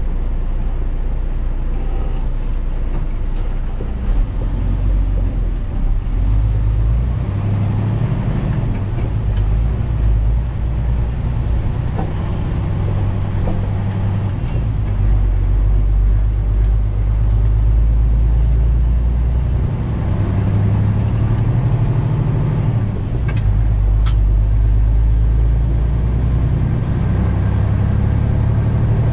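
Detroit DD15 diesel engine of a 2021 Western Star 4900 semi truck running under way, its note rising and falling several times as the driver works through the gears, with a faint high whistle in the second half and a sharp click near the end.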